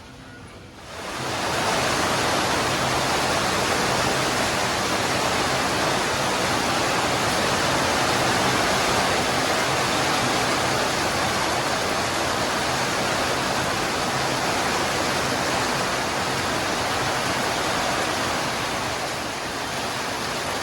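Heavy rain pouring down as a dense, steady hiss that comes in sharply about a second in and eases slightly near the end.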